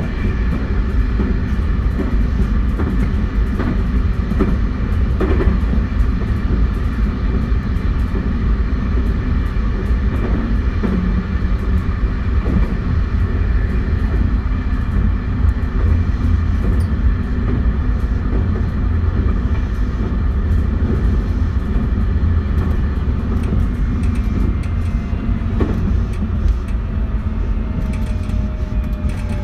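JR West 271 series electric train running at speed, heard from on board: a steady rumble of wheels on rail with the steady tones of its Hitachi SiC inverter drive and occasional clicks over the rail. Near the end a tone slides slowly downward.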